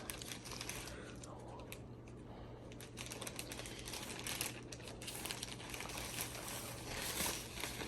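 Plastic packaging crinkling and rustling in irregular bursts as clothes are handled and pulled out of a mail-order package.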